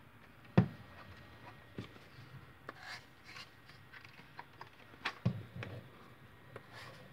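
Nerf Elite foam darts being pushed into the tight-fitting barrels of a 3D-printed seven-shot Hammershot cylinder: rubbing with scattered light plastic clicks and knocks, the sharpest about half a second in and another about five seconds in.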